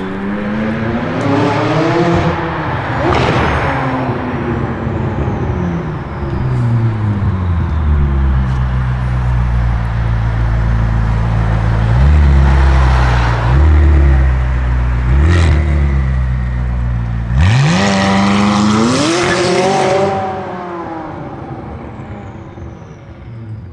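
Loud McLaren 600LT twin-turbo V8 breathing through catless downpipes: revs rise and fall, then it runs at a low rumble with a few short throttle blips. About two-thirds of the way in it accelerates hard in one steep rise in revs, which then fades as the car pulls away.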